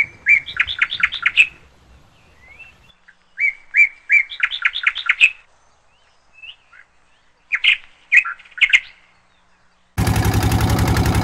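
A songbird sings three short phrases a few seconds apart; each is a clear note followed by a quick run of rising chirps. About ten seconds in, the sound cuts abruptly to a loud, steady, evenly pulsing vehicle engine.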